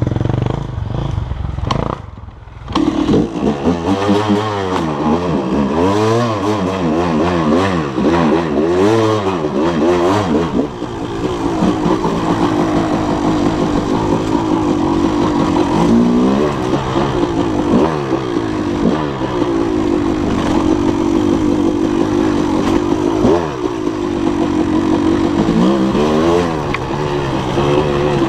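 Dirt bike engine running under the rider, its pitch rising and falling over and over as the throttle is opened and closed through the gears, then holding steadier with a few more surges near the end.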